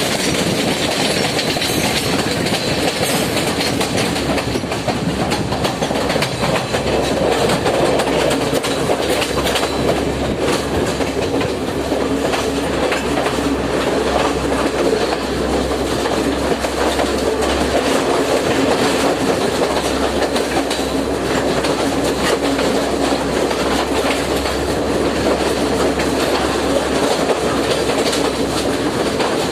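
Passenger train running along the track: a steady, loud rumble of the carriages with the repeated clickety-clack of wheels over the rails.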